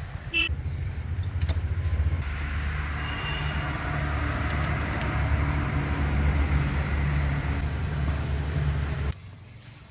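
A motor running steadily with a low rumble and a hiss, cutting off abruptly about nine seconds in.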